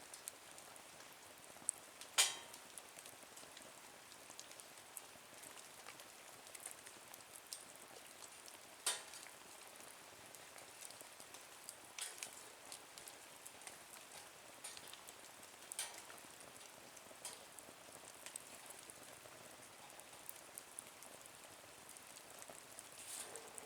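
Small wood fire burning in a folding nature stove, crackling faintly over a low hiss. Scattered pops come through, the loudest about two seconds in and about nine seconds in.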